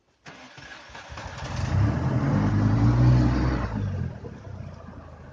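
A car engine revs hard under load for about two seconds, swelling up and then falling back to a lower steady run, as a stuck vehicle is driven to climb out of a pit.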